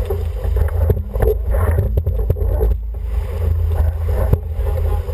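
Wind buffeting the microphone over water rushing past an International 14 sailing dinghy's hull, with scattered short knocks and slaps throughout.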